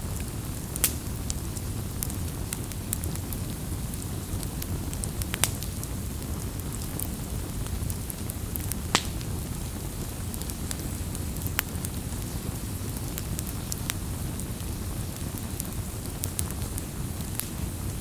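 Campfire burning with a steady low rumble and irregular sharp crackles and pops, a few louder pops standing out about a second in, around five seconds in and around nine seconds in.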